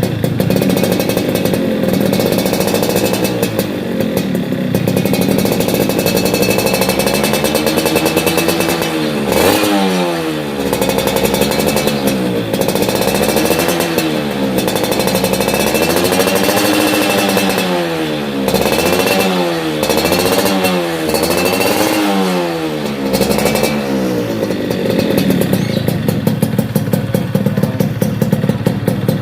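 Yamaha F1ZR two-stroke single-cylinder motorcycle engine running through a racing-style standard exhaust. It idles steadily at first, is revved up and down in a series of throttle blips through the middle, and settles back to idle near the end.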